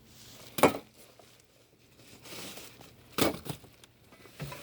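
Rummaging through a trash can: a plastic bag and papers crinkling and rustling, with two louder sharp crackles.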